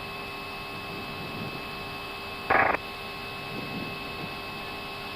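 Steady electrical-sounding hum of an Airbus A320 cockpit in the initial climb, with a few fixed tones over a low rush of noise. A brief loud burst cuts in about halfway through.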